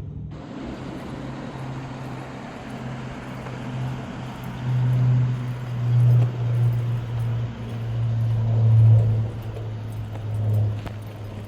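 2003 Chevrolet Trailblazer running, its engine drone holding a steady pitch while it swells louder a few times in the middle, over a steady hiss.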